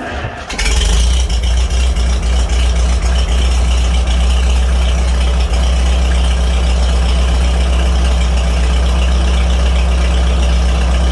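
1949 Farmall H's four-cylinder gasoline engine firing up: it catches about half a second in and then runs steadily. On its fresh spark plugs it runs evenly, with none of the missing on a cylinder or rattle up top that a fouled plug had been causing.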